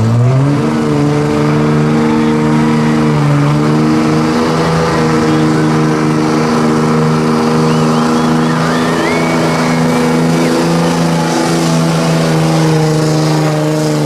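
A pulling truck's engine revs up in the first second, then holds at steady high revs.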